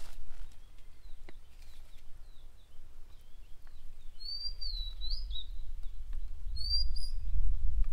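Wild bird calling: a few faint chirps, then two louder whistled calls that rise and fall, about four seconds in and again near seven seconds. A low rumble builds toward the end.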